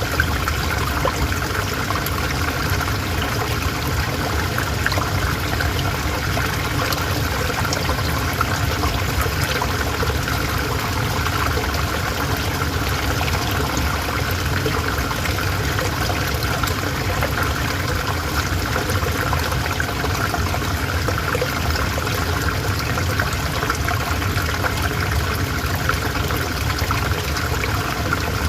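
Calm river water flowing, a steady unbroken trickle and splash.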